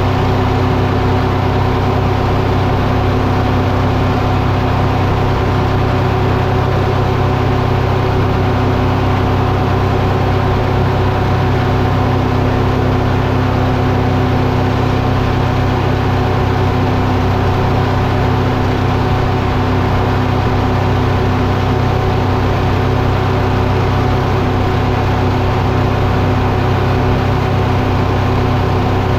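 Diesel engine running at a steady speed, with a constant low hum that holds unchanged throughout.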